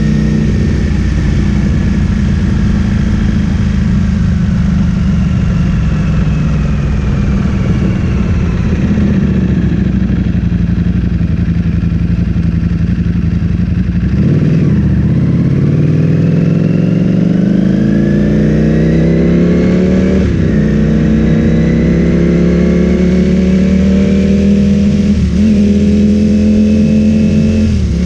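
Ducati Streetfighter V4 S's V4 engine through an Akrapovic full-system exhaust, on the move. The engine note falls steadily for about the first half as the bike slows, then climbs as the rider accelerates, with short breaks in the note at gear changes about two-thirds of the way through, again a few seconds later, and near the end.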